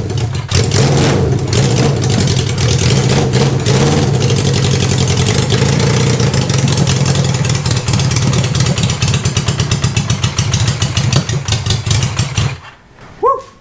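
1973 Honda CB500 Four's air-cooled inline-four engine running loud through open exhaust headers with the mufflers pulled off, its note pulsing unevenly in the later seconds. It fires on all four cylinders only briefly, then shuts off suddenly near the end.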